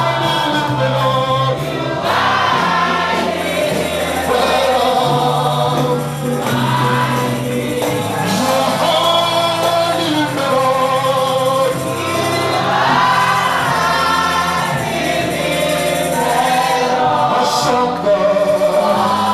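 Gospel choir singing with live band accompaniment, a bass line moving under the voices.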